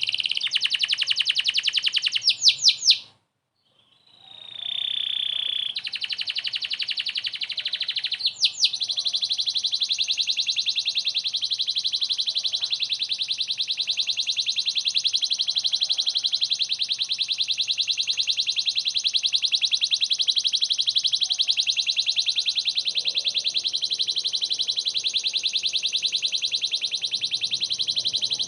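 Domestic canary singing rapid rolling trills. The song cuts out for about a second around three seconds in, then resumes and settles into one long, unbroken fast trill.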